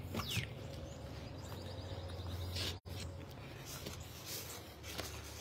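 Quiet outdoor yard ambience: a few faint bird chirps over a low steady hum, with a brief dropout about halfway.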